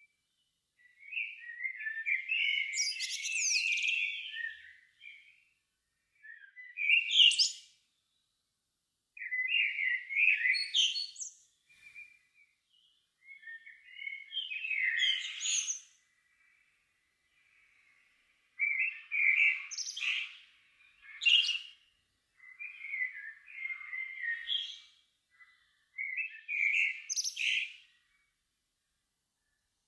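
A songbird singing its evening song in separate phrases of a second or two, about eight of them with short pauses between. Each phrase is a warble that ends in thin, high notes.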